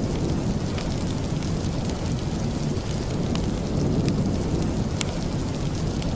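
Steady rain with a deep, even rumble, and a few sharp crackles from a fireplace, the clearest about five seconds in.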